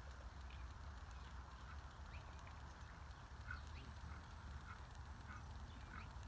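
A bird in the surrounding trees repeating short chirping calls, about one to two a second, over a low steady rumble.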